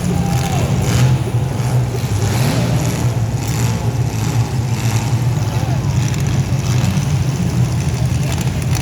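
Demolition derby compact cars' engines running loudly and revving, a steady low rumble throughout.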